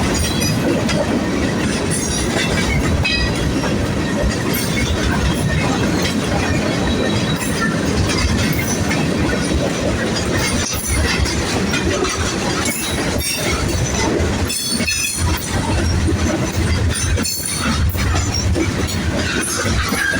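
Freight cars of a manifest train rolling past close by, a steady loud rumble of steel wheels on rail. Sharp clacks come as wheels cross rail joints, with brief high wheel squeal.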